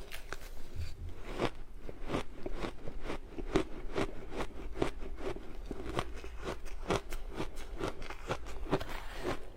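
Ice being bitten and chewed close to the microphone: a steady run of sharp, irregular crunches, about two or three a second.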